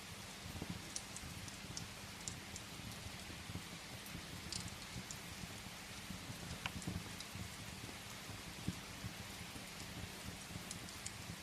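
Steady rain on a window, with a fireplace's burning wood giving scattered sharp crackles and pops over a low rumble.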